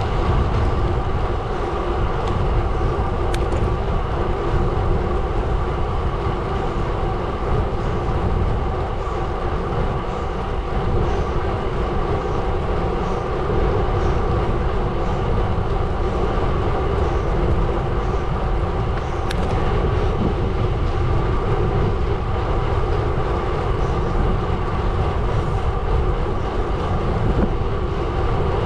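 Gravel bike tyres rolling over a gravel road: a steady rolling rumble and crunch, with a couple of sharp clicks about three seconds in and again near the twenty-second mark.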